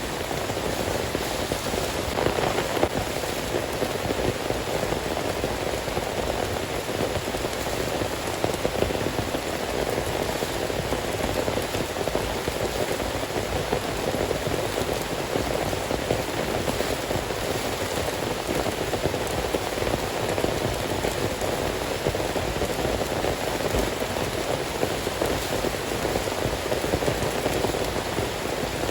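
Heavy rain falling steadily, a dense, unbroken downpour.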